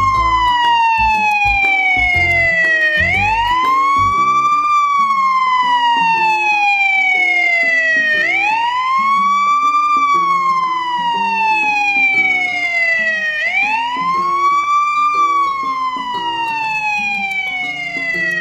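A siren wailing: the tone sweeps quickly up, then slides slowly back down, repeating about every five seconds.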